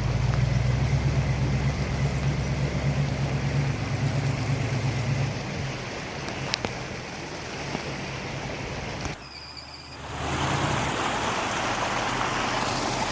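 Bronco's 460 big-block V8 running with a strong low note, fading away after about five seconds as the truck moves off. From about ten seconds in there is a steady rushing hiss of creek water.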